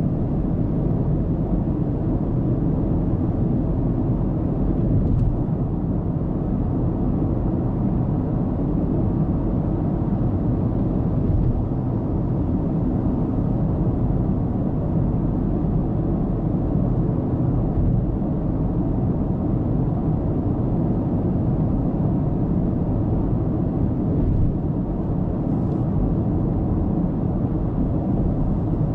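Steady low rumble of tyre and engine noise from a car driving at speed, as picked up inside the cabin by a dashcam.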